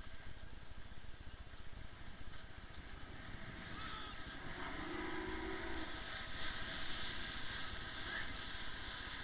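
Umpire motorboat under way: its engine running steadily beneath a hiss of rushing water and wind that swells from about three seconds in.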